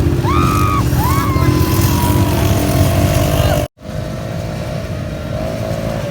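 Quad bike engine running steadily, with a high-pitched call from a voice over it in the first two seconds. The sound cuts out for an instant just past halfway, then the engine runs on a little quieter.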